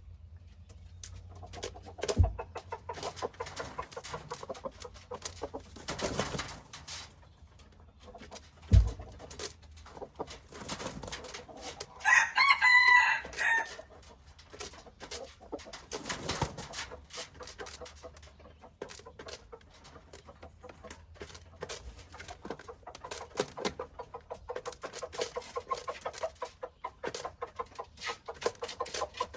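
Chickens clucking among many short taps, with a rooster crowing once for about a second and a half near the middle. Two low thumps come about two and nine seconds in.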